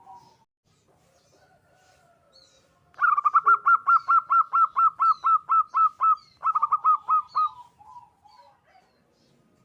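Zebra dove singing: a short low coo, then about three seconds in a fast run of bright repeated cooing notes, about five a second, with a brief break and lower trailing notes at the end. Faint high chirps of another small bird sound now and then.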